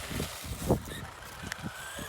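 Electric RC car's motor whining, rising in pitch as it speeds up, with a few sharp knocks, the strongest a little before halfway.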